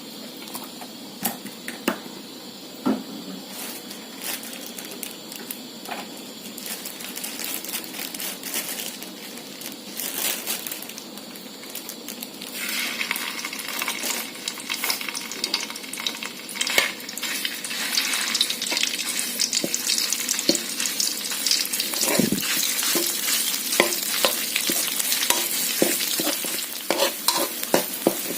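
Stir-frying in a hot pan: a steady sizzle with a spatula clicking and scraping against the pan. About twelve seconds in the sizzle gets much louder and brighter, and the spatula strokes come thicker near the end.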